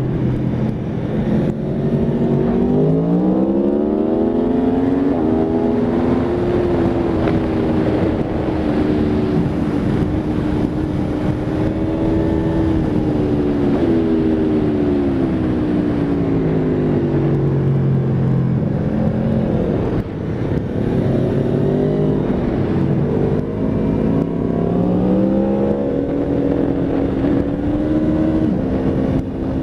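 Aprilia Tuono V4 RR's V4 engine on a track lap, revving hard. The pitch climbs steeply a few seconds in and holds high, falls away as the bike slows, then climbs again, with brief drops in level near the middle and the end.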